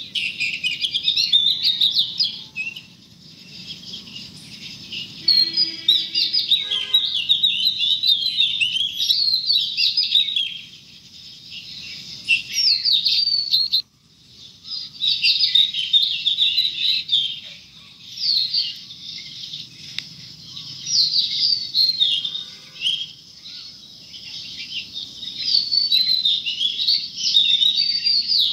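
Songbirds chirping and singing, many quick calls overlapping almost without pause. The calls break off suddenly for a moment about 14 seconds in.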